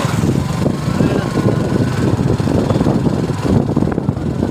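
Suzuki Gixxer motorcycle on the move: engine running steadily under heavy wind buffeting on the microphone.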